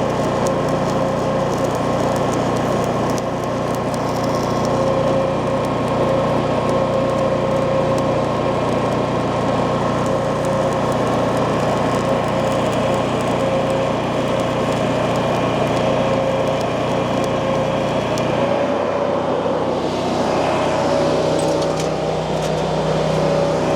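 Steady machine running noise with a constant hum and a few steady tones, changing slightly in its low range near the end.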